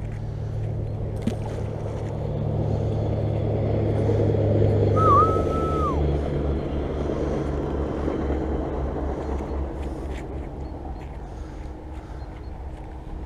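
A motor engine passing by: a low hum and rushing noise that build to a peak about five seconds in, drop in pitch as it goes past, then slowly fade away.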